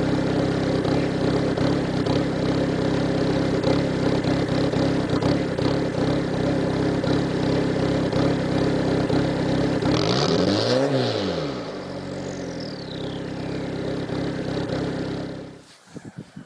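Diesel car engine idling steadily after a cold start, revved once about ten seconds in, its pitch rising and falling back before it settles into a quieter idle. The engine sound cuts off shortly before the end.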